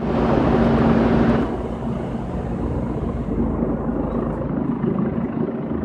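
Steady outdoor rumble with a low hum, like engine noise, louder and brighter for the first second and a half and then settling.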